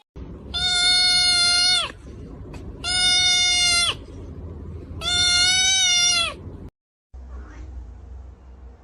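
An animal giving three long, even-pitched cries about a second apart, each dropping in pitch as it ends.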